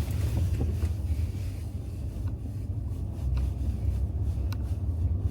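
Car cabin noise while driving slowly: a steady low rumble of engine and tyres on the road, with a few faint clicks.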